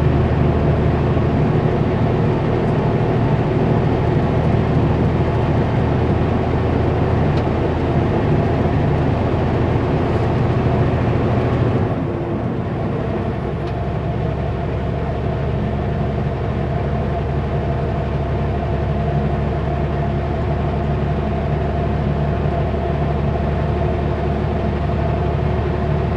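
Kenworth W900L semi truck's diesel engine droning steadily, heard from inside the cab while the truck hauls a heavy Super B load. About halfway through the engine note changes and drops a little, as in a gear change or easing off the throttle.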